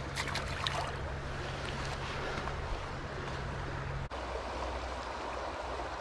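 Trout stream running, a steady rush of water, with a few short clicks in the first second and a sudden brief dropout about four seconds in.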